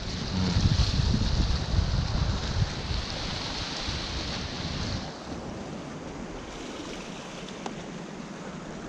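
Wind gusting on the microphone over sea waves washing against a rocky shore; the gusts ease off about five seconds in, leaving a steadier surf hiss.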